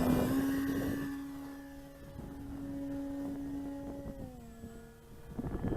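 FLEX Innovations Cessna 170 RC plane in flight, its electric motor and propeller giving a steady whine that drops in pitch about four seconds in. Near the end there is a burst of wind rumble on the microphone.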